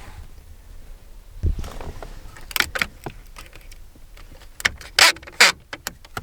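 Handling noise inside a pickup truck's cab: scattered clicks and knocks, a soft thump about one and a half seconds in, and two louder rustling swishes near the end.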